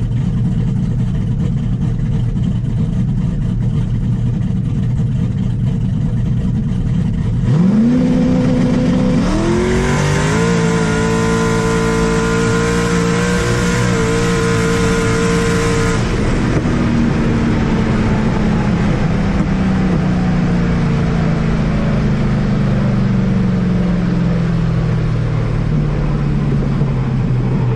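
A vehicle engine running steadily, then about seven seconds in it revs up sharply in pitch and holds high for several seconds before the pitch falls away slowly: a car accelerating hard down the drag strip, then slowing.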